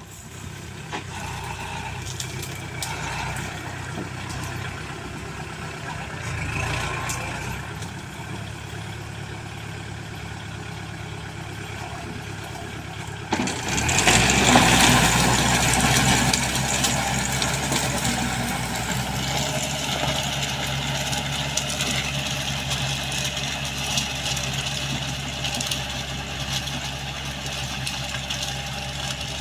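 Heavy machine's diesel engine running steadily; about thirteen seconds in it turns suddenly louder, with a deeper engine note and more noise on top, and runs on at that level.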